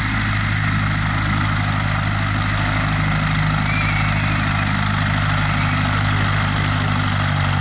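An engine running steadily at an even idle-like drone, shifting pitch slightly near the end.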